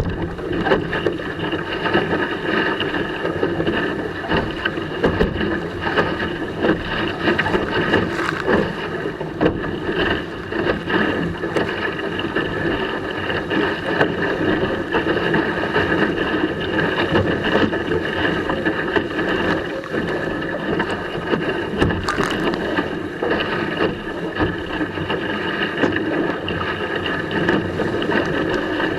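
Water rushing and splashing steadily along the hull of a Laser sailing dinghy under sail in a fresh breeze, with wind buffeting the microphone.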